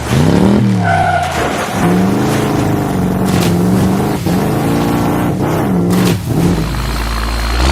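Cartoon vehicle engine sound effect: a motor tone that revs up and down in pitch, holds a wavering steady note, and turns into a low rumble near the end. A short beep comes about a second in.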